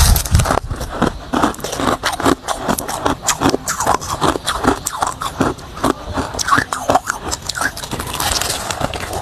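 Hard ice being bitten and chewed, a dense, continuous run of sharp crunches.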